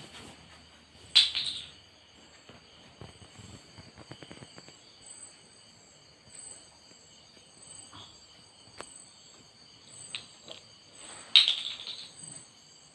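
Steady high-pitched chirring of crickets, broken by two short, loud, sharp squawks from a parrot, one about a second in and one near the end.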